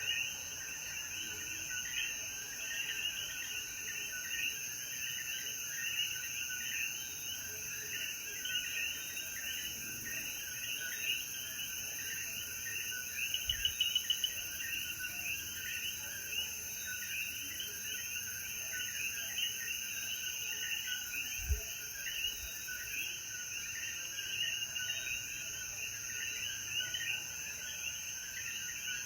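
A dense chorus of many Puerto Rican coquí frogs, with their short rising calls overlapping constantly, over a steady high insect hum.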